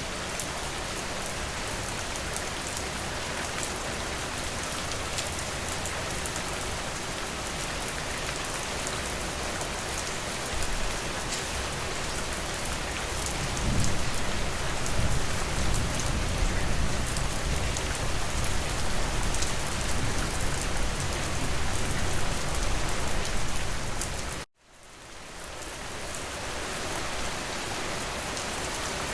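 Steady rain falling, an even hiss with fine pattering drops. About halfway through a deeper low rumble builds under it; near the end the sound cuts out suddenly for a moment and the rain fades back in.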